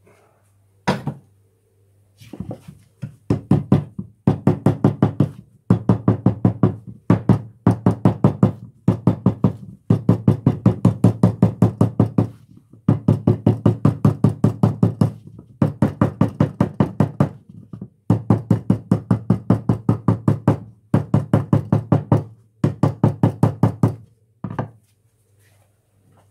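Lightweight pin hammer tapping sheet lead, dressing a flat flange: rapid knocks, several a second, in runs of one to two seconds with short pauses between.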